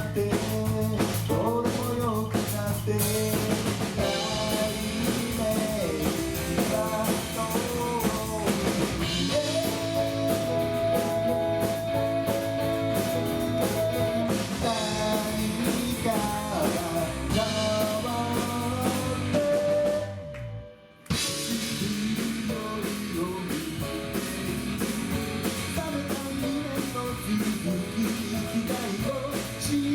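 Rock band playing live: drum kit, guitars and a melody line that holds one long note midway. About twenty seconds in the whole band stops dead for about a second, then comes back in.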